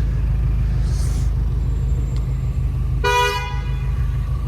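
BMW M6's engine rumbling low and steady in street traffic, with one short car horn toot about three seconds in.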